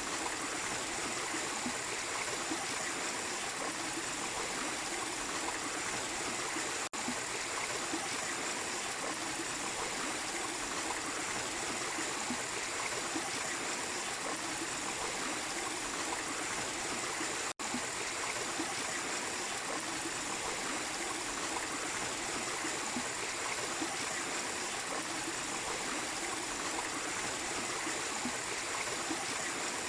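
Small waterfall and stream water rushing steadily, with two momentary cut-outs about seven and seventeen seconds in.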